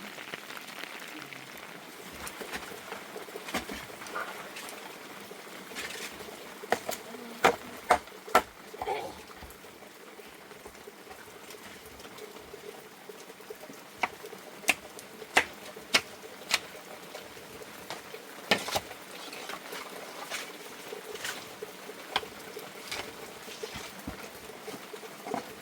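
Steady rain with scattered sharp taps and knocks, in two clusters: one about a quarter of the way in and another just past the middle.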